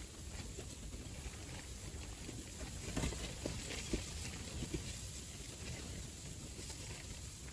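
Strong wind rumbling on the microphone, with a few light clicks and taps about three to five seconds in.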